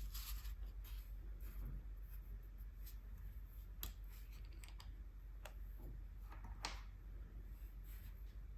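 Faint, scattered clicks and short scratchy strokes of gouache painting supplies being handled during swatching, with one sharper stroke near the end.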